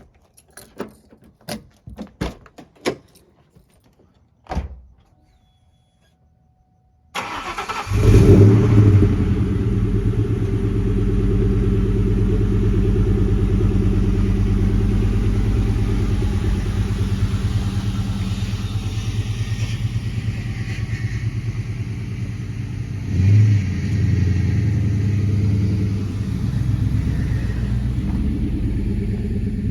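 A few scattered clicks and knocks, then a car engine starts about seven seconds in, flares up briefly and settles into a steady idle, with a short blip of revs later on.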